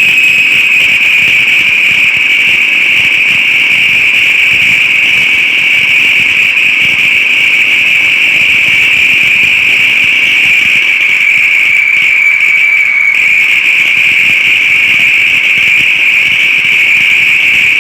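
Experimental detonation liquid-fuel rocket engine running on the test stand: a steady, piercing high whistle, painful to the ear, over a rushing hiss of combustion. About twelve seconds in, the whistle wavers and dips slightly in pitch for about a second, then steadies again.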